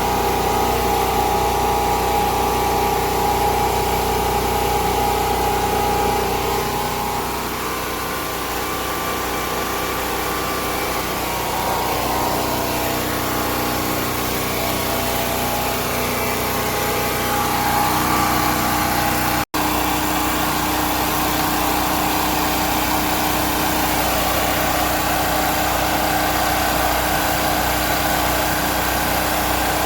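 Predator 4000 portable generator engine running steadily. Its note shifts and dips slightly about seven seconds in and picks back up near eighteen seconds. There is a split-second break in the sound just before twenty seconds.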